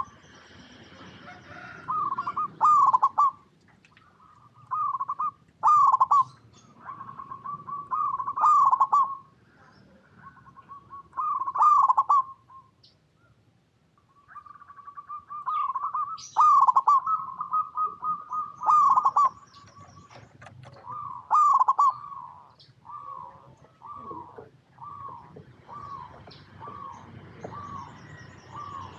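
Zebra doves cooing: repeated phrases of quick staccato coos at one clear pitch, closing in the last few seconds with a run of evenly spaced single coos, about two a second.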